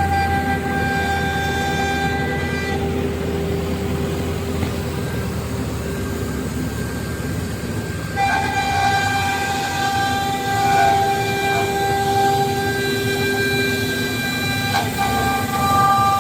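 5-axis CNC router's spindle whining steadily while it machines, with a stack of steady tones that shift about eight seconds in as the cut changes.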